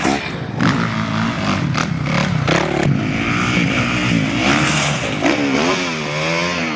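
Dirt bike engine revving up and down, its pitch rising and falling repeatedly, with a few clattering knocks in the first few seconds.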